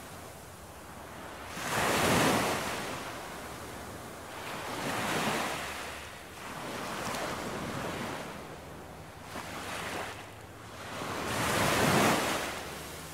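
Ocean waves breaking on a beach, swelling and falling in repeated surges, loudest about two seconds in and again near the end.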